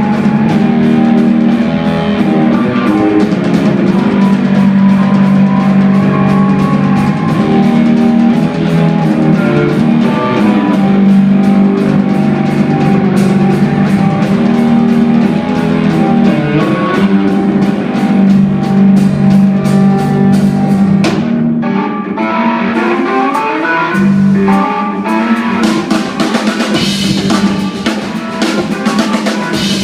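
Loud live instrumental rock from a band: drum kit, a sustained low bass line and dense keyboard and string textures. About three-quarters of the way through the sound briefly thins, and the drums come more to the fore near the end.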